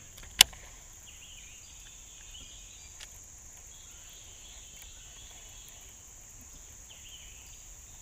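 Steady high-pitched insect drone with faint chirping over it. A single sharp click about half a second in, and a fainter one about three seconds in.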